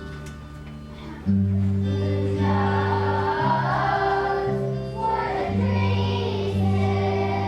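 Children's choir singing a church song over instrumental accompaniment with a steady bass line; the accompaniment swells and the voices come in about a second in.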